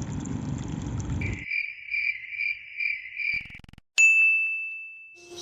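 A short run of intro sound effects. A noisy whoosh gives way to a high chirping tone that pulses about twice a second, then a single bright bell-like ding about four seconds in rings out and fades.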